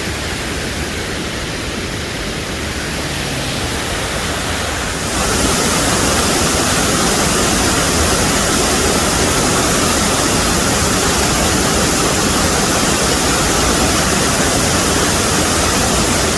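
Waterfall: a steady rush of falling water that gets louder about five seconds in.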